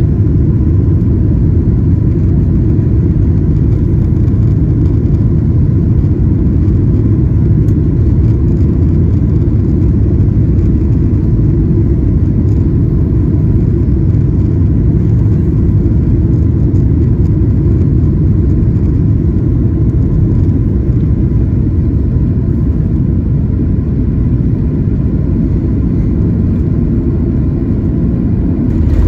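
Steady low rumble of cabin noise inside a Boeing 737-900ER, its CFM56-7B engines running as the jet taxis, with a faint steady whine above the rumble.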